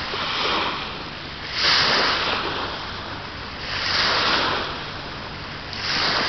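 Small waves washing onto the shore in regular swells about every two seconds.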